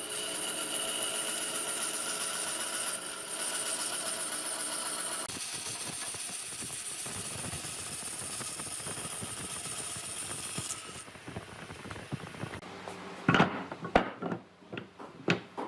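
Electric power tool running with a steady whine, turning noisier after about five seconds and stopping at about eleven seconds. Several sharp knocks follow near the end.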